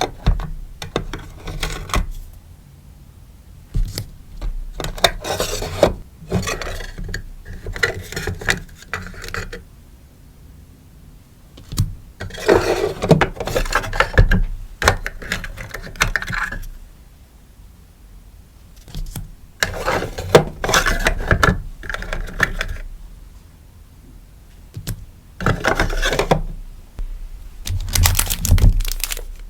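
Stickers being packed by hand: bouts of crinkly plastic and paper rustling with light taps and clicks, each a second or two long, with short pauses between.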